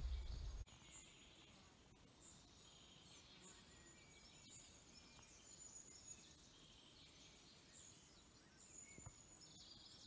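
Faint birdsong: scattered thin, high chirps and whistles over near silence, with a brief low rumble that cuts off about half a second in.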